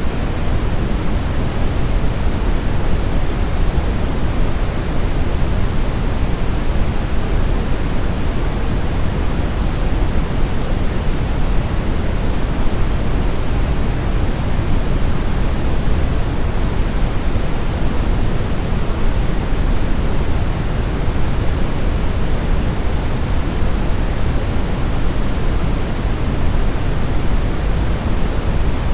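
Steady brown noise: an even, unchanging hiss weighted toward the low end, with no events.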